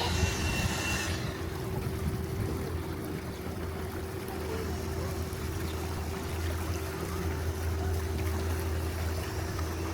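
Tour boat's engine running steadily at cruising speed, a low drone with a steady hum above it. A higher whine over it stops about a second in.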